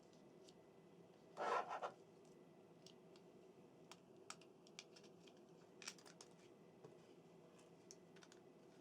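Small plastic parts of an N gauge model train being handled and fitted together: a brief scraping rustle, then a scatter of faint small clicks.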